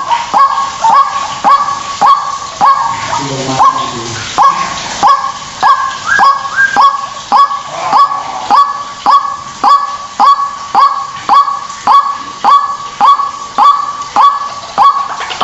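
White-breasted waterhen calling over and over: a fast, even series of short upward-sweeping notes, about two a second.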